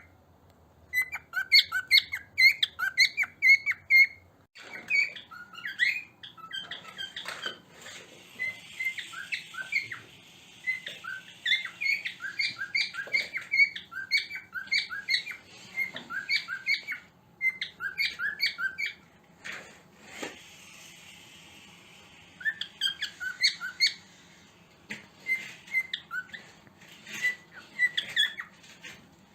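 Cockatiel chirping in quick runs of short, repeated notes, with brief pauses between runs and a few soft clicks.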